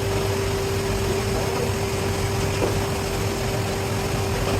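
Steady hum of workshop machinery running at a constant speed, with a fixed mid-pitched whine over a low hum and a faint click a little past halfway.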